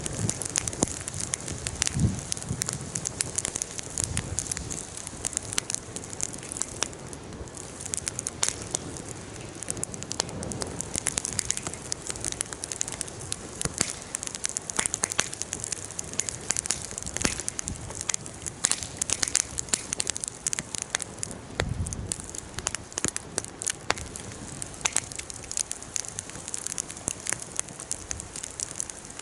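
Wood fire burning in an open fire pit, crackling and popping steadily over a soft hiss. There are a couple of brief low thumps, about two seconds in and again around twenty-two seconds.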